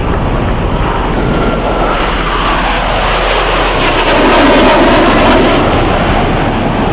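Blue Angels F/A-18 Super Hornet jet flying past, a loud roar with a whine that falls in pitch as it goes by. The sound peaks about four to five seconds in.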